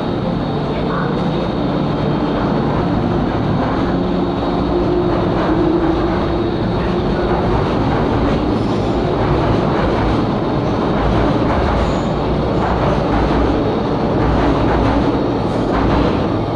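MTR M-Train electric multiple unit running: a steady rumble of wheels on rail, with a low motor whine that rises and falls.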